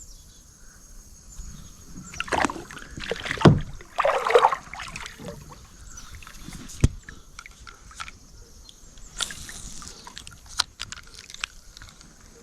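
Water sloshing and splashing around a kayak, with rustling and scattered sharp knocks and clicks against the hull as a just-landed crappie is handled aboard.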